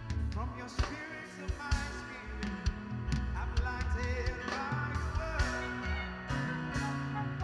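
A band playing music, with a bass line and regular drum hits.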